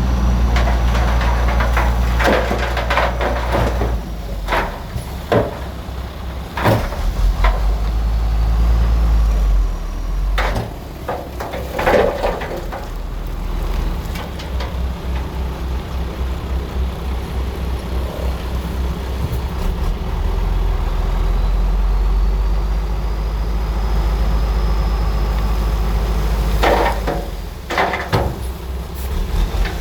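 A bulldozer's diesel engine running heavily, with repeated metallic clanks and knocks, in clusters near the start, about ten seconds in and near the end. A faint high whine rises twice.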